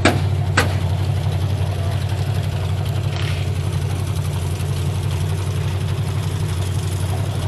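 A car engine idling steadily with a low hum. Two sharp knocks come right at the start, about half a second apart.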